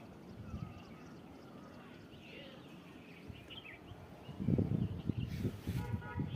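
Small birds chirping in short scattered calls, with low rumbling buffets of wind on the microphone in the second half and a brief hissing note about five and a half seconds in.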